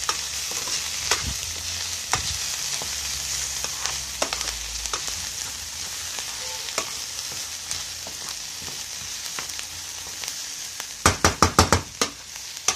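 Chopped onions and garlic sizzling in a stainless-steel frying pan while being stirred, with a steady hiss and scattered scraping clicks of the utensil on the pan. A little before the end comes a quick run of about six sharp knocks, like the utensil being tapped against the pan.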